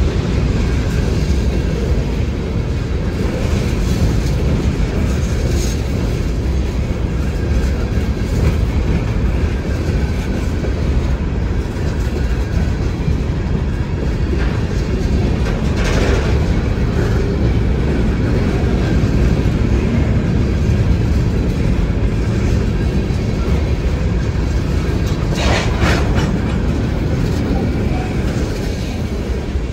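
Freight train of covered hopper cars rolling past close by: a steady, loud rumble of steel wheels on rail. Two brief, sharper metallic noises stand out, one about halfway through and one near the end.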